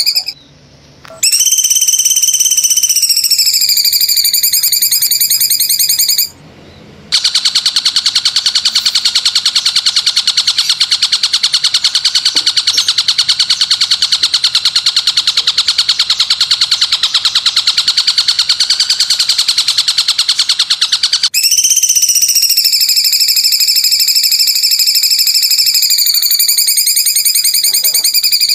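Recorded songbird calls played as a looped training track. A loud, piercing whistled note, steady then dipping slightly in pitch, runs for a few seconds and stops abruptly. After a short gap comes a long, rapid buzzing trill of about fourteen seconds, then the whistled note returns.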